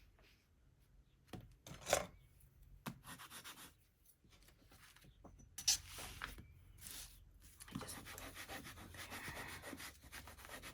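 Paper and cardstock being handled and rubbed down by hand: a few short rustles and sharp taps, then steady rubbing over the last few seconds as a glued paper image is pressed onto cardboard.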